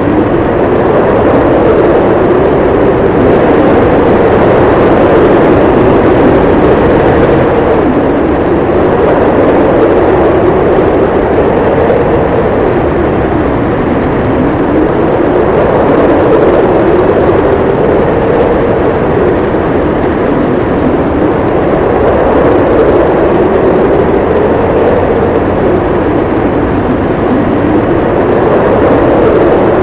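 Howling blizzard wind, a steady loud rush with a low howl that slowly rises and falls in pitch every few seconds.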